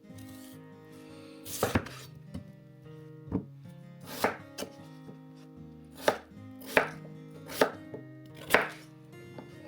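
Kitchen knife chopping food on a cutting board: about nine separate strokes at an uneven pace.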